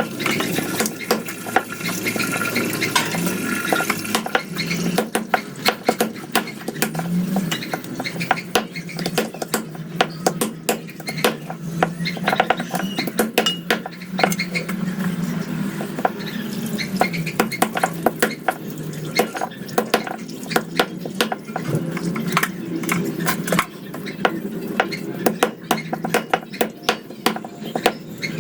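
Metal utensils clattering and scraping against a cooking pot, many irregular clicks and knocks, as food is stirred during cooking.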